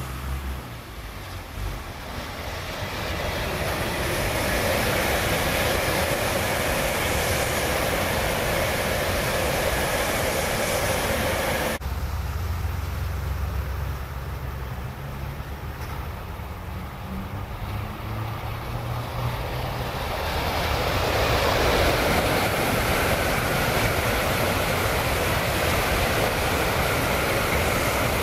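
Tokaido Shinkansen high-speed trains passing at speed: a steady rushing noise that builds over the first few seconds and breaks off at a sudden cut about twelve seconds in. From about twenty seconds in, it builds again as another train approaches.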